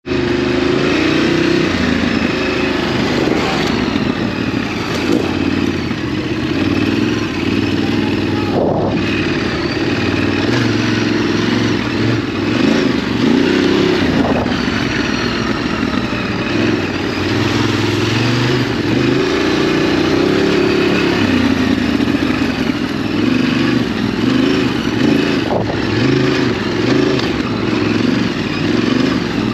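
Ducati DesertX's 937 cc L-twin engine running as the bike is ridden, its pitch rising and falling with the throttle. It briefly drops away about nine seconds in and again a few seconds before the end.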